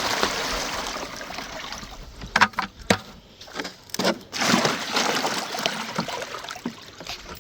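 Water poured from a bucket into a pool, twice: each pour starts with a rush and tails off, with a couple of knocks in between.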